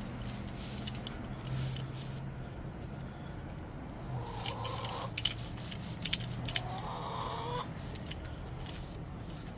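A rag rubbing and wiping metal starter parts clean, in two spells of rubbing about four and six seconds in, with a few light clicks of the parts being handled, over a steady low hum.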